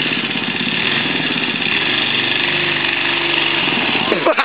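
Small minibike engine running steadily, then breaking up into uneven pulses just before the end.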